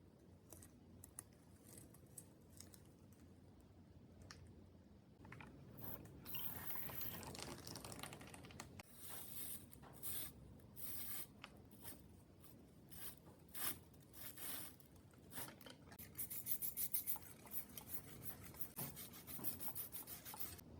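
A few light clicks of small metal parts being handled, then rubbing and scrubbing strokes as years of dirt and old grease are cleaned off bottom bracket parts. The scrubbing quickens near the end to about five strokes a second.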